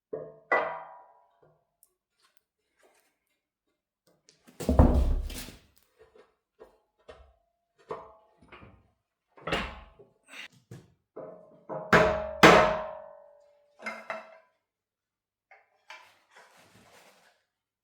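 Irregular metallic clanks and knocks of steel parts being handled and set down, several ringing on briefly after the strike; the loudest blows come about five seconds in and again about twelve seconds in.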